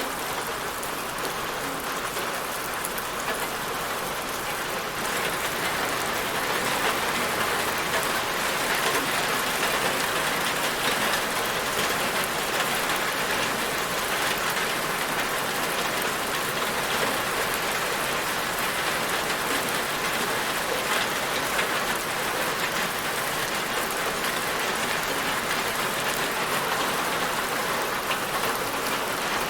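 Steady, dense rainfall pattering on a surface, an even hiss of drops that swells slightly about five seconds in.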